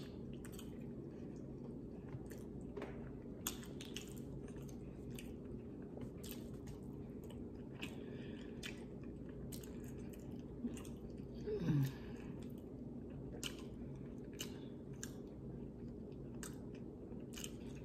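Faint close-up chewing of a hard-boiled egg: scattered wet mouth clicks and smacks over a steady low hum. About twelve seconds in comes one brief falling hum of the voice.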